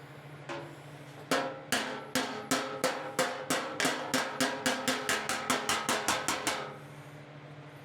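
Body hammer striking the fender's sheet steel against a dolly: a run of about twenty ringing metal blows that speed up from about two to about five a second, working the grooved ridge back into shape.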